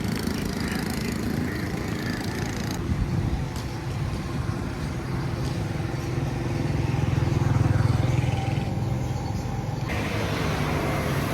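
Street traffic: motor vehicle engines running steadily, with one engine swelling louder for a couple of seconds past the middle. The background shifts abruptly twice.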